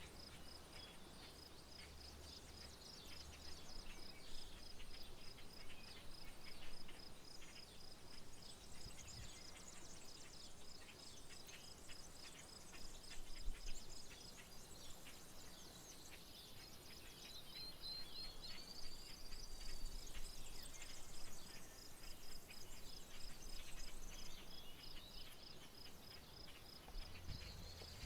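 Insect trilling steadily in rapid, even pulses, with scattered short bird chirps over it and a faint low rumble that fades in near the end.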